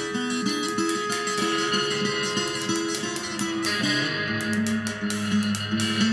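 Live rock band playing an instrumental passage: guitars pick a melody over drum and cymbal hits, and a fuller, lower part comes in about two-thirds through.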